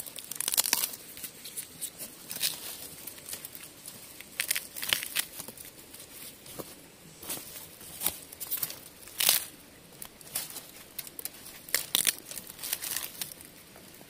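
Bamboo shoots being pulled and snapped off by hand: irregular crisp cracks and tearing sounds, a dozen or so, with rustling in between.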